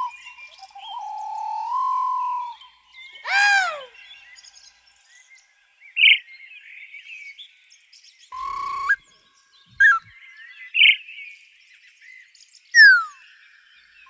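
A string of separate bird calls: a rising, stepped whistle, then a loud arching call rich in overtones, short chirps, a harsh call and a quick falling whistle near the end. Faint birdsong chatters throughout.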